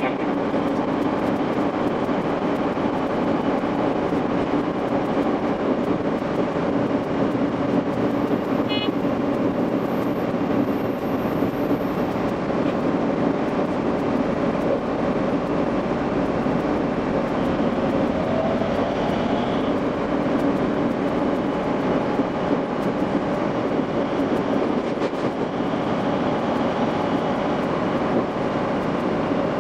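Running noise of an Ou Main Line local train, sped up five times: a steady, dense rumble and rattle of wheels on rail.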